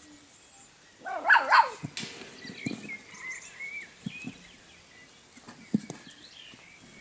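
A small dog barks twice, short and high, about a second in. Fainter high-pitched whining and light knocks follow.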